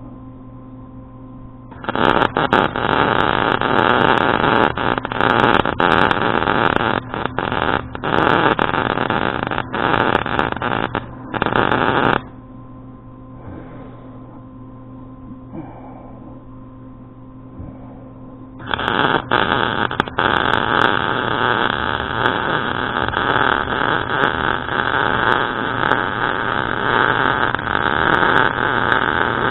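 Electric arc welder striking an arc and welding, a loud crackling sizzle in two long runs: from about two seconds in to about twelve seconds with a few brief breaks, then again from about eighteen seconds on. In the gap the welder's steady low hum carries on.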